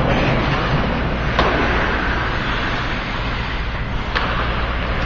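Ice hockey game sounds in a rink: a steady wash of skates on ice over a low rink hum, with two sharp knocks about a second and a half in and again about four seconds in, typical of stick and puck impacts.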